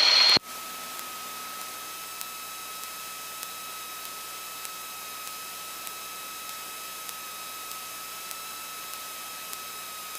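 Steady electrical hiss with a thin constant whine and faint ticks evenly spaced, about one and a half a second: line noise on the cockpit intercom recording feed while the microphone is unplugged.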